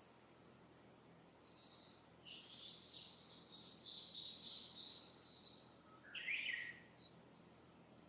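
Wild birds singing in the distance: a run of high, quick chirping notes starts about a second and a half in and lasts several seconds, followed by a single lower call near the end, over a faint steady background hiss.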